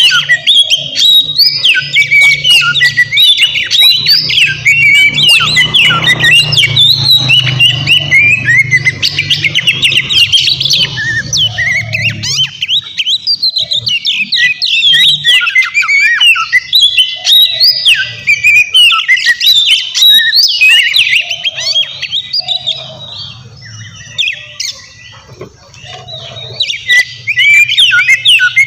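Oriental magpie-robin (kacer) singing loudly and continuously: a fast, busy run of varied chirps, whistled sweeps and harsh notes. The song drops off briefly near the end, then picks up again. A low steady hum runs beneath it for much of the time.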